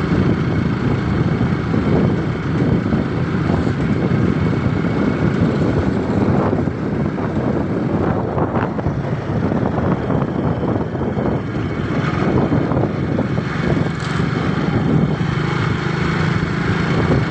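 Motorcycle engine running steadily while the bike is under way.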